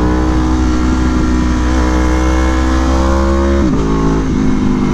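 Aprilia Tuono V4 1100 Factory's V4 engine pulling hard under acceleration, its pitch climbing steadily, then dropping abruptly about three-quarters of the way through as it shifts up a gear and pulls on at lower revs.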